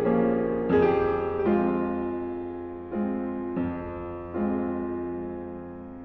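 Background music: slow piano chords, each struck and left to ring and fade, a new chord roughly every second.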